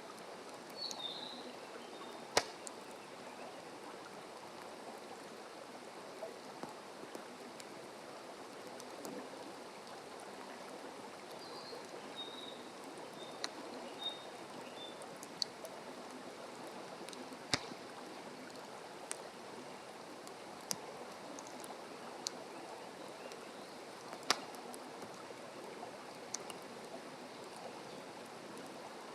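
Wood campfire crackling, with a dozen or so sharp single pops spread irregularly over a steady rushing background. A bird gives a few short high chirps about a second in and again near the middle.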